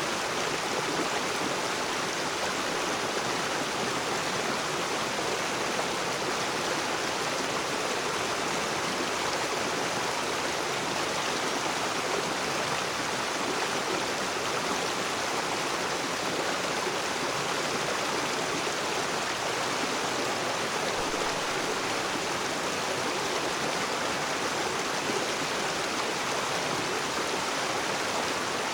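River water rushing steadily over rocks: an even, unbroken rush with no distinct splashes.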